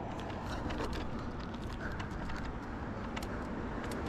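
Riding noise from a Riese & Müller Roadster e-bike on the move: a steady rumble and hiss with many small sharp clicks and rattles.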